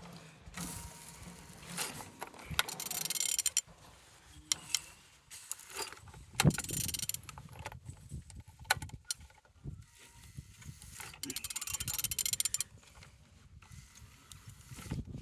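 A used engine being turned over by hand: several bursts of rapid metallic clicking and scraping from the tool on the crankshaft, with a few sharp clunks. The engine turns freely.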